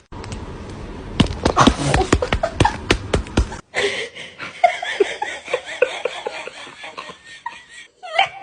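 A run of sharp knocks and clatter for the first few seconds, then after an abrupt cut a person laughing in a quick, repeated rhythm.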